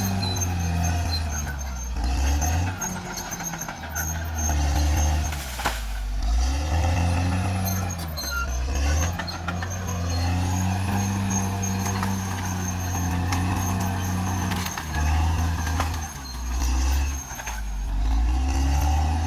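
Caterpillar D6R XL bulldozer's diesel engine running under varying load: its deep drone fades and returns several times, with a few sharp knocks, the loudest about five and a half seconds in.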